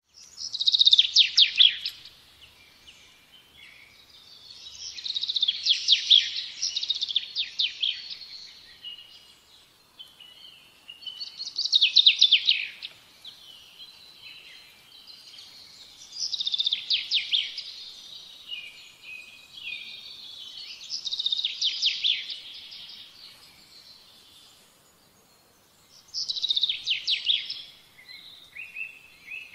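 A songbird singing: six phrases of fast, trilled song, each one to three seconds long, coming about every five seconds.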